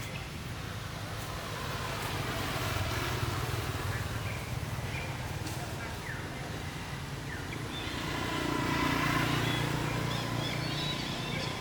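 Engine of a motor vehicle running, growing louder twice as if passing.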